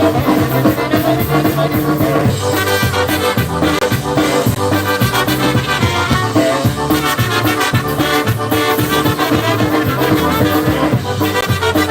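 Live polka band playing an instrumental passage with a steady beat.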